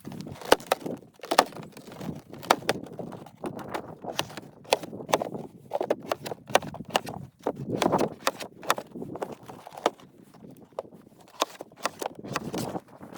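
Irregular sharp clicks and knocks, several a second, with a few louder crunching bursts, the loudest about eight seconds in.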